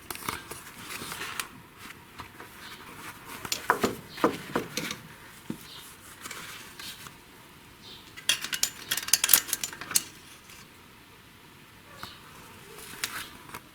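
Metal-on-metal clicks and clinks from working a valve spring compressor on a VAZ-2109 cylinder head to free the valve keepers. A few scattered clicks, then a quick run of sharp clinks a little past the middle, and one more near the end.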